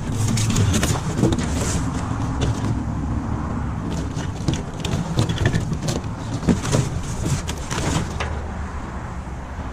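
Junk being handled and shifted in a dumpster: a run of short knocks, clicks and clatters over a steady low rumble.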